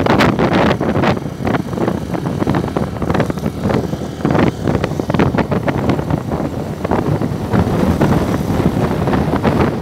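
Motorcycle on the move, with wind buffeting the microphone in uneven gusts over the engine and road noise.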